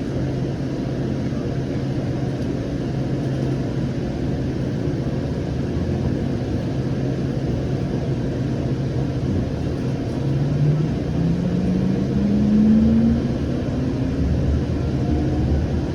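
Siemens S700 light rail car running, with a steady low hum and rolling noise. From about ten seconds in, a motor whine rises in pitch as the train picks up speed.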